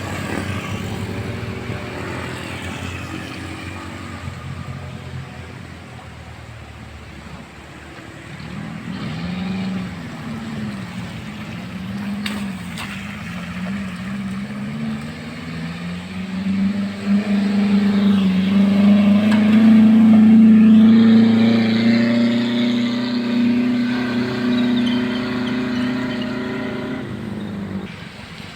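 Road-vehicle engines labouring up a steep hill. One engine's pitch wavers up and down, then a louder steady engine drone builds and is loudest about two-thirds of the way through.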